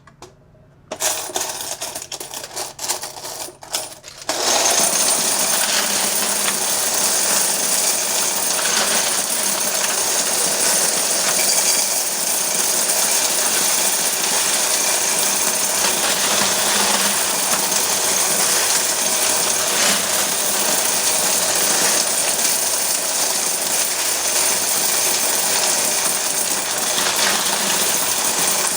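Quarters clattering through an electric coin counter. A few scattered clinks come first, then about four seconds in the machine settles into a dense, steady rattle of coins running through it.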